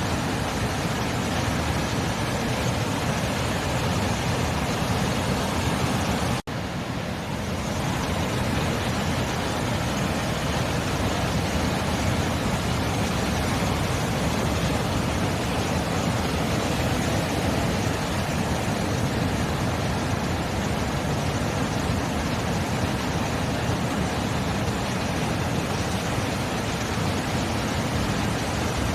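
Steady roar of sea surf, an even rushing noise without distinct breaking waves, briefly cutting out for a split second about six seconds in.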